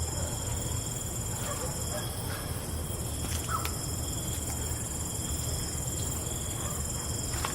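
Night insects such as crickets trilling steadily at several high pitches over a low steady rumble, with a few faint clicks.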